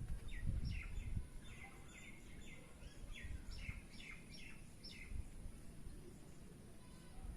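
A bird calling: a run of about a dozen short notes, each falling in pitch, two or three a second, stopping about five seconds in. A low rumble is loudest in the first second.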